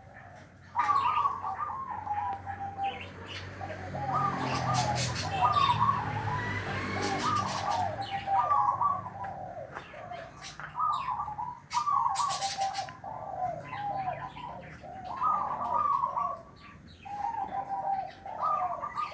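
Zebra dove (perkutut) cooing busily: its rolling, trilled coo phrases follow one another almost without pause, starting about a second in. Short sharp clicks sound over them now and then.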